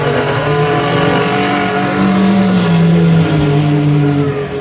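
Engines of Baja race trucks running hard around the track, the engine pitch rising and falling as they rev and pass.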